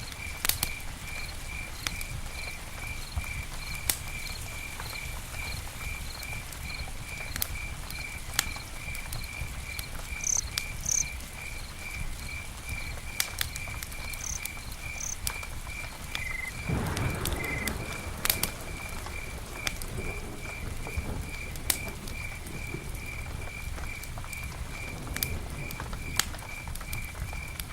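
Campfire crackling, with scattered sharp pops over a low rumble, and a cricket chirping steadily about three times a second. A short lower sound breaks in about two-thirds of the way through.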